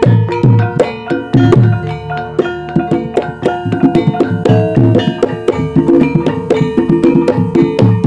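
Javanese gamelan music in the Banyumas ebeg style: hand-drum strokes in a quick, driving pattern over ringing metallophone melody lines. The drums come in loudly right at the start.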